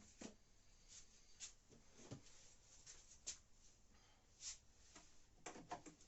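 Faint, scattered clicks and scrapes of hands and parts being handled while the temperature sensor is pulled out of a washing machine's heating element, with a small cluster of clicks near the end.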